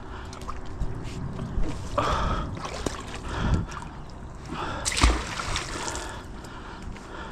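Water splashing and sloshing a few times at the water's edge, the biggest splash with a dull thud about five seconds in.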